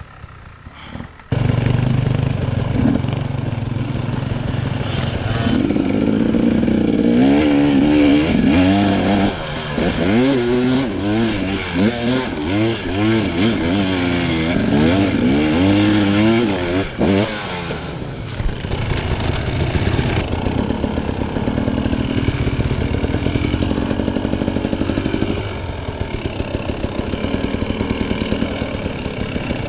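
Enduro dirt bike engine being ridden hard, the revs rising and falling again and again as the throttle is worked, then running more evenly in the last third. It comes in suddenly after a quieter first second or so.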